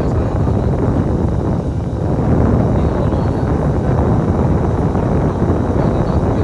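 Steady low rumble of a running vehicle, with wind buffeting the microphone.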